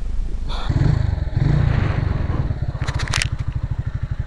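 Direct Bikes DB125-9's 125 cc single-cylinder four-stroke engine (156FMI) running. It is revved up briefly about a second in, then settles to a steady idle of about a dozen even pulses a second, with a few sharp clicks near the middle.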